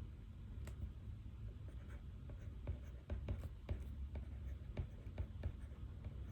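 Pen writing on paper: a run of short, irregular scratching strokes and taps, busier in the second half, over a low steady room hum.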